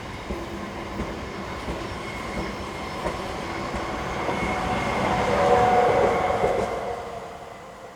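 Renfe Class 130 Talgo train running past: a steady rumble of wheels on rail with a thin, high, steady whine. It grows to its loudest about six seconds in, then dies away near the end.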